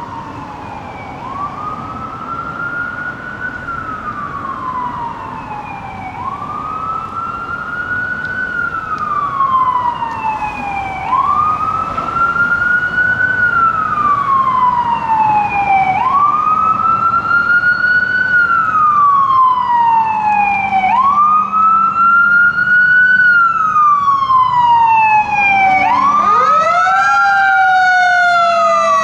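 Fire engine's electronic siren on a slow wail, each cycle rising quickly and falling slowly, about every five seconds, growing louder as the truck approaches. Near the end a second, lower siren tone joins over the first.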